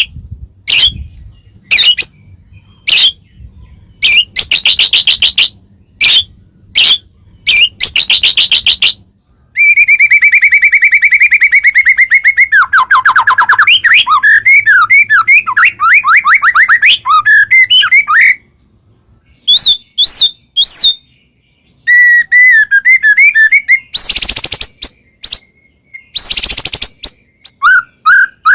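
White-rumped shama (murai batu) song from a training recording, loud: varied phrases of fast trills, clear whistles and buzzy rattles with short pauses between, including a long unbroken run of rapid trills in the middle.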